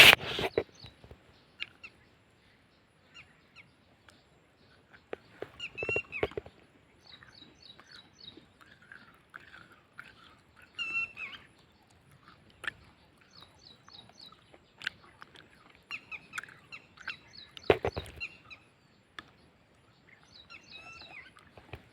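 Birds calling and chirping at intervals, with a few sharp clicks in between.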